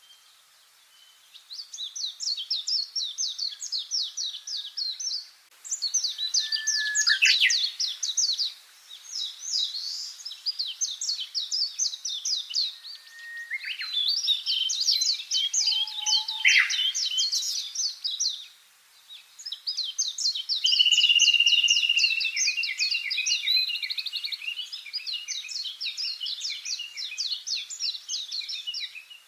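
A songbird singing long, rapid, twittering phrases, five or so in a row with short pauses between them.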